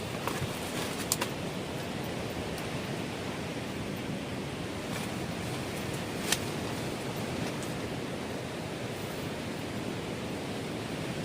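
Steady rushing of strong wind and sea surf, with a few faint clicks about a second in and a sharper click about six seconds in.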